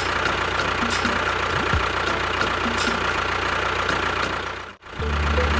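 A small engine-like motor running steadily with a fast, regular ticking. It cuts off abruptly near the end, and music with steady low notes takes over.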